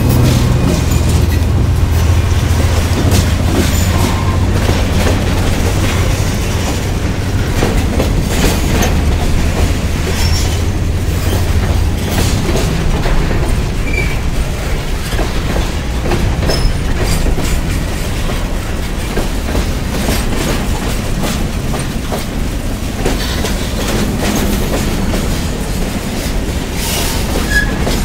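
Freight train passing close by. The trailing CSX diesel locomotive's engine drone fades over the first dozen seconds, then covered hopper cars roll past with a steady wheel rumble, scattered clicks and a couple of brief squeaks.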